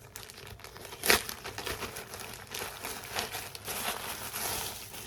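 Plastic packaging crinkling and rustling as a t-shirt is unwrapped and handled, with one sharp, louder crackle about a second in.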